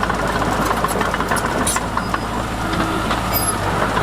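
Diesel engine of heavy earthmoving machinery running steadily, with scattered metallic clanks and clatter over it.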